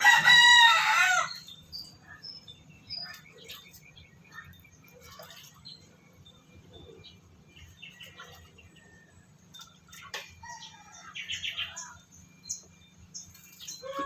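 A Persian cat's loud, wavering yowl at the start, followed by fainter cries about ten seconds in and again near the end, over a steady low hum.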